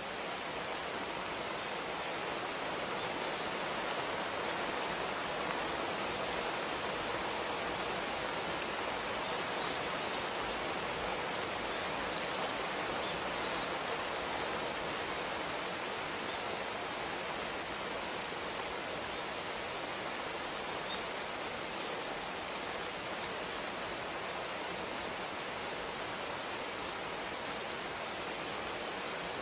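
Steady rain falling as an even hiss, with a few faint high chirps from birds.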